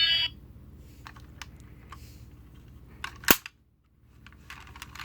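An electronic sound effect cuts off just after the start, then light plastic clicks and taps from handling a toy vehicle, with one sharp click about three seconds in.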